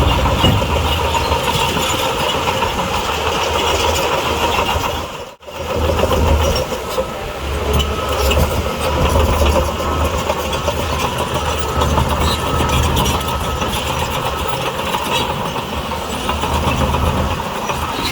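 Heavy diesel engine of earthmoving machinery running steadily, with a deep low rumble. It cuts out abruptly for a split second about five seconds in, then resumes.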